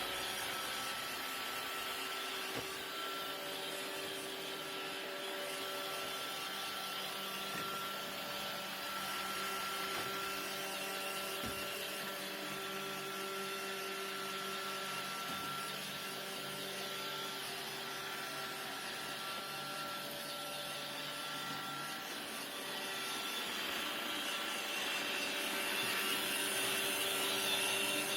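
iRobot Roomba robot vacuum running steadily, its motors whining and brushes whirring as it drives in search of its dock. The sound gets a little louder near the end.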